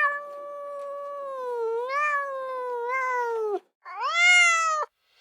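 Cat meowing: one long, drawn-out meow that wavers up and down in pitch, then a shorter meow near the end.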